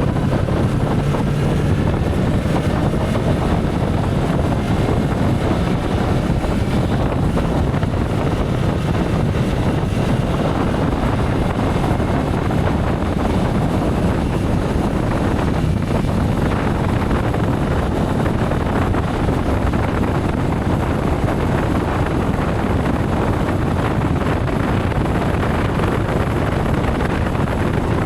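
Wind rushing over the microphone of a motorcycle at riding speed, with the motorcycle's engine running underneath; steady throughout.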